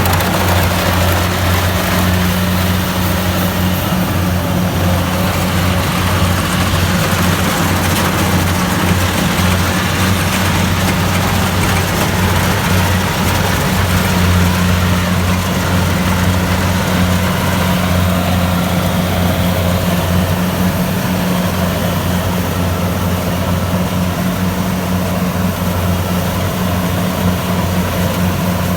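Kubota DC-70 Plus combine harvester running steadily under work: a low, even engine drone with a constant hum and rush of machinery over it.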